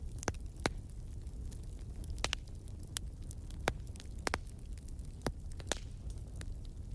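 Wood fire crackling: irregular sharp snaps and pops, about a dozen, over a steady low rumble of the burning fire.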